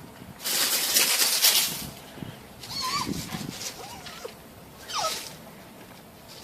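A pet animal's sounds: a loud, breathy burst about half a second in, then short cries that bend and slide down in pitch around three and five seconds in.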